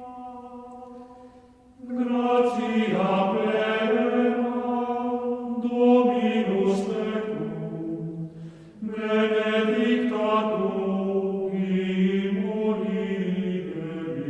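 Voices chanting a slow sacred chant in long held notes that step from pitch to pitch. A new phrase begins about two seconds in and another about nine seconds in.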